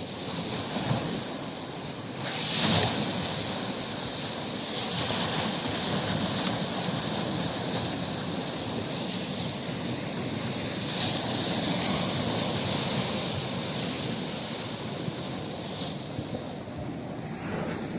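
Sea waves washing onto the shore, a steady surf that swells and ebbs, with one louder wave breaking about two and a half seconds in.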